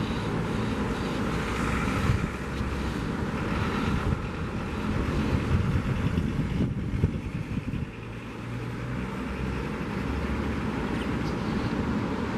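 Steady sound of ocean surf, with wind buffeting the microphone and vehicle traffic passing on the seafront road.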